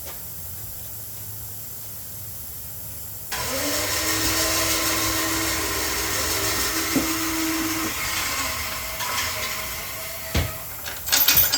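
A small motor starts about three seconds in, runs steadily with a hiss and a whine, then shuts off and winds down. A thump and a few clicks follow near the end.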